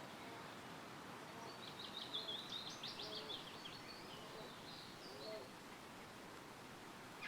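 Steady wind rustling through forest trees. A songbird sings one short, rapid run of high notes from about one and a half to three and a half seconds in, with a fainter note near five seconds.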